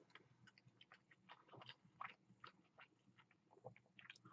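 Faint chewing of a chicken sandwich: scattered soft mouth clicks and small crackles.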